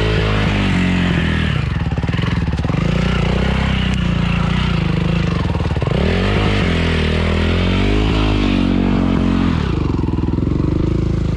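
Off-road motorcycle engine revving up and down in repeated bursts as the rider tries to work the stuck bike free. The revs drop back and settle lower near the end.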